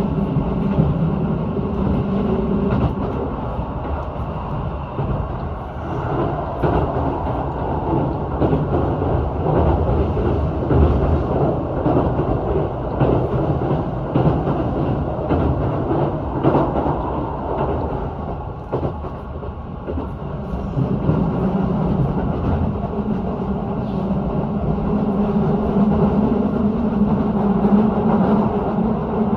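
Keihan Railway electric train running on the rails: a steady rumble with a low hum, strongest near the start and again near the end, and wheel clicks over the rail joints.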